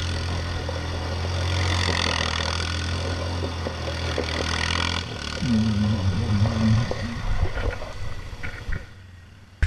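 Motorcycle engine running, with a short rise in pitch about five and a half seconds in, then fading away over the last couple of seconds.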